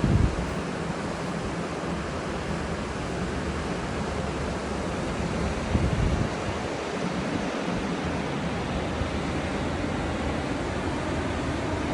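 Atlantic surf breaking and washing steadily on the beach, with wind gusting against the microphone just after the start and again around six seconds in.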